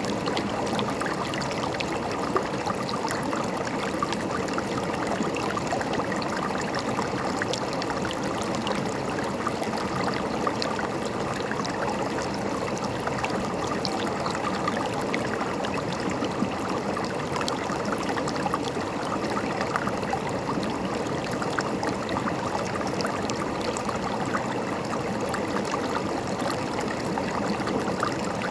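River water running and gurgling steadily over rocks, a continuous rush with small splashes and trickles throughout.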